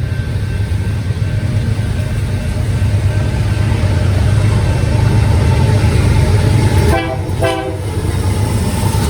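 Diesel train running past with a steady low rumble. A short horn toot sounds about seven seconds in.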